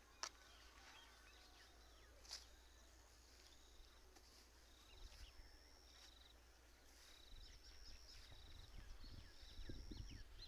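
Faint birdsong outdoors: short high trilled notes repeating about once a second among scattered chirps, over a low rumble that builds in the last few seconds.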